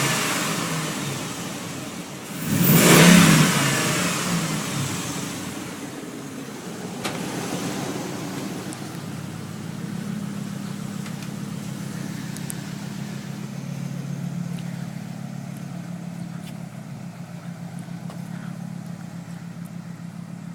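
Dodge Ram pickup's V8 just after a cold start: revved hard once about three seconds in, then settling into a steady idle.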